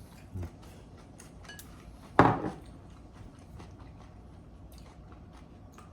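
Utensils clicking against bowls at a meal, with one louder ringing knock of a bowl or utensil about two seconds in.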